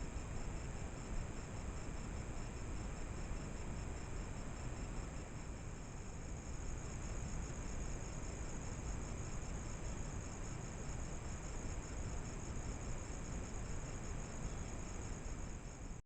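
Insects chirping in a steady, fast-pulsing high chorus over a low, even hiss and rumble. The chorus stops abruptly at the end.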